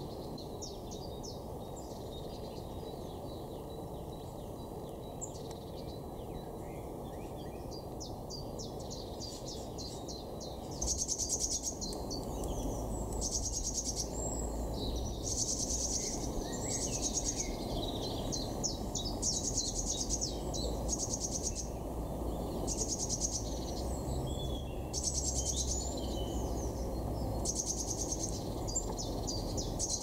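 Garden birds calling, with short high trills repeated every second or two over a steady background of outdoor noise. The calls get louder and more frequent about a third of the way in.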